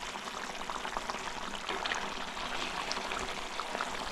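Chicken liver and tomato curry sizzling and bubbling in a pan: an even hiss dotted with small crackles.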